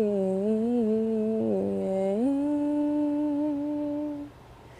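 A woman's voice humming a wordless line of the song. It wavers on one note, slides up to a higher note about two seconds in, and holds it until it stops a little after four seconds.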